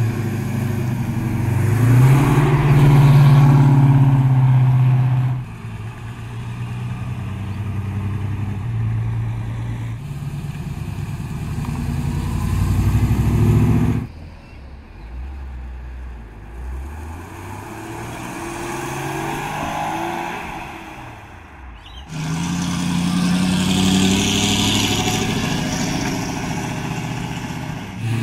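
Cars pulling away one after another, each engine revving as it accelerates, with abrupt cuts between them. It opens with a black Ford Landau and passes a Porsche 911 about halfway through. The Porsche's stretch is quieter than the rest.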